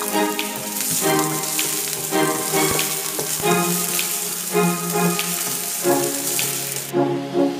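Diced onion and garlic sizzling in hot oil in a stainless steel wok, stirred with a spatula with a few light scrapes; the sizzle cuts off about seven seconds in. Background music plays under it.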